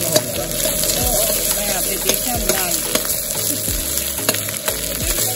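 Egg fried rice sizzling in a hot wok while a metal ladle stirs it, with scattered clicks of the ladle against the pan.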